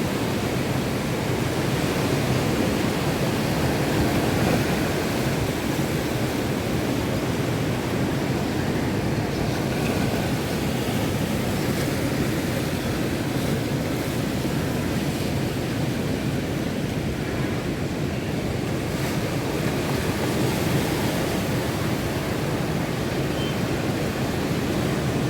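Ocean surf breaking continuously in strong monsoon wind, a steady dense roar of waves mixed with wind buffeting the microphone.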